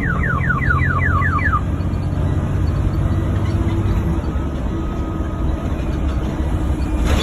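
Dispatch radio alert tone: a fast run of falling electronic chirps, about four a second, that stops about a second and a half in. Under it and after it, the fire engine's motor runs with a steady low rumble inside the cab, and a short click comes near the end.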